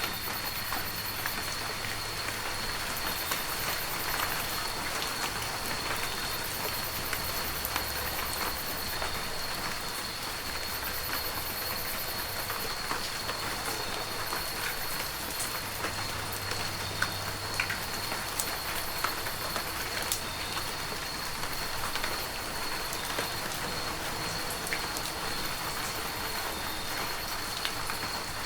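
Heavy rain falling steadily: a continuous hiss with many scattered individual drop hits, and a thin steady high tone running underneath.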